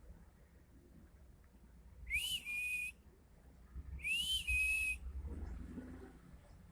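Pet parrot giving two whistled calls about two seconds apart, each sliding up and then holding a steady note with a raspy edge.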